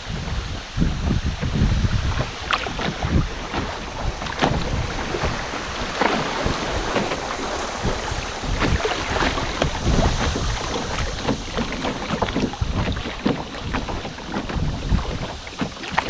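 Canoe paddle strokes and water splashing and lapping against the canoe, with irregular knocks, and wind buffeting the microphone in gusts.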